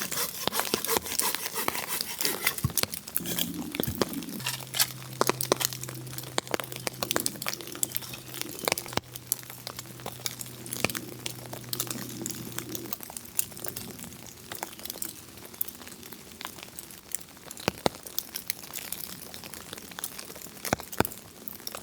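Crinkling, rustling handling noise with many sharp clicks, as sticks are lashed together with cord for a camp chair. A steady low hum comes in about four seconds in and stops around thirteen seconds.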